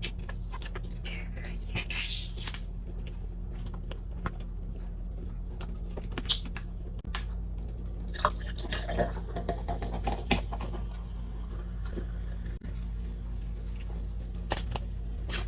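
Quiet handling of food and tableware: scattered small clicks and taps, with a short hiss about two seconds in, over a steady low hum.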